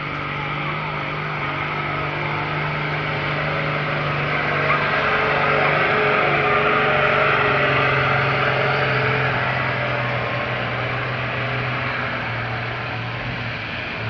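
A competition pulling tractor's engine running hard under full load, swelling to its loudest about halfway through and then fading.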